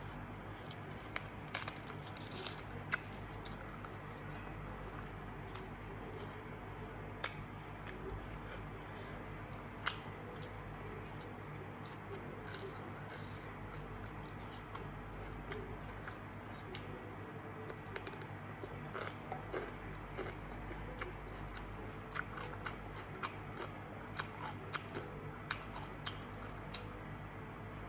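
Close-up eating sounds: chewing and crunching with scattered sharp clicks and smacks, as a person eats a spicy grilled pork-neck salad with raw vegetables. A steady low hum runs underneath.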